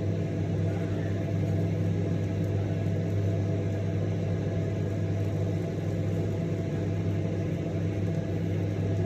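Microwave oven running, a steady mains hum with no breaks or pops.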